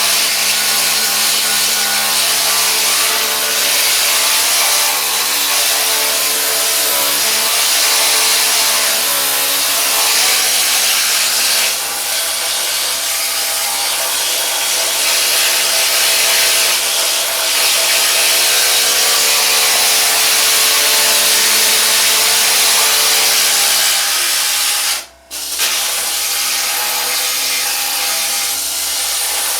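Pneumatic needle scaler running steadily against rusted car body steel, knocking rust off the bottom of the panel. It stops for a moment near the end, then starts again.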